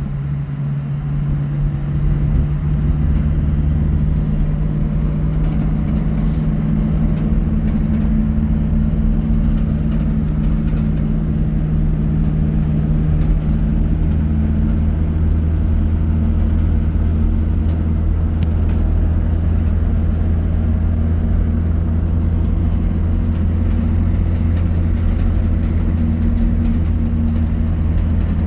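A motor vehicle's engine running at a steady speed with a low, even drone, growing a little louder over the first two seconds and then holding level.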